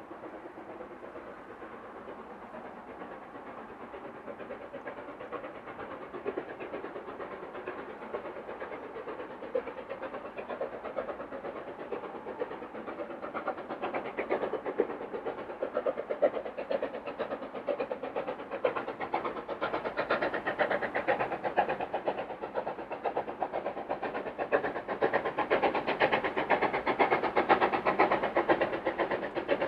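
Steam locomotive working hard, its rapid exhaust beats growing steadily louder as it approaches.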